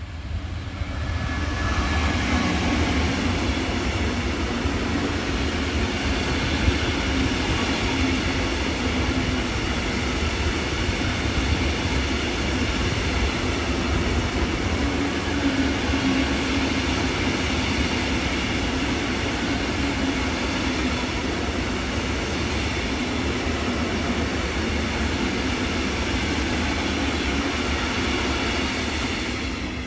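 A Stadler EuroDual class 159 locomotive passes close by, followed by a long train of Faccns hopper wagons rolling past with steady wheel-on-rail noise. The sound swells in over the first two seconds and dies away near the end as the last wagons clear.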